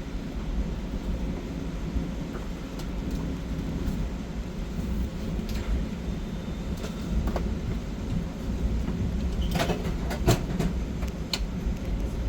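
Steady low rumble of a train running along the track, with a quick run of sharp clicks and knocks a little before the end.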